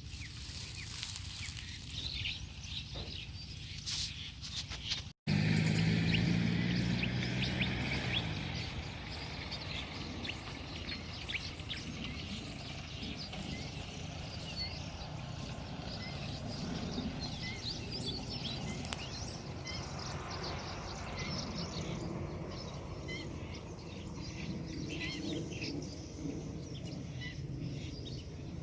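Wind blowing across open rice fields with many small birds chirping throughout. About five seconds in, after a brief dropout, a loud low hum comes in for a few seconds and fades away.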